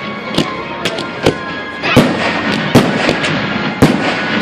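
Fireworks display: about eight sharp bangs at irregular intervals over a continuous crackle.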